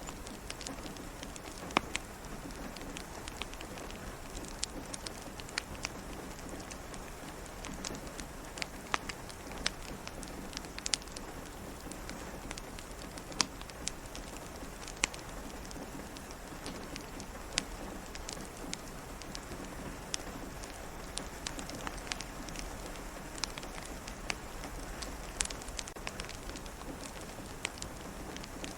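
Steady rain falling, with irregular sharp crackles and pops from a wood fire scattered through it.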